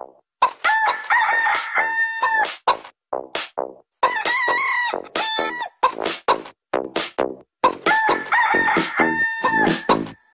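Rooster crowing three times in long drawn-out calls, with short clucking sounds between them.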